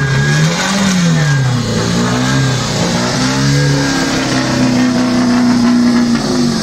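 Ford Cortina race car's four-cylinder engine rolling slowly past. It is blipped up and back down twice, then held at a steady raised rev, and drops again near the end.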